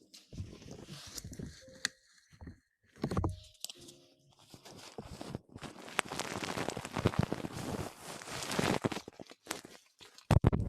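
Close-miked rustling and scrubbing with scattered clicks and taps, heaviest for several seconds about halfway through, with a sharp thump near the end.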